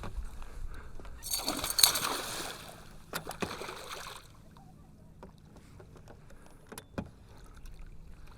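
Water splashing in a burst lasting about a second as a hooked northern pike is brought in beside a fishing boat, followed by a few sharp knocks on the boat.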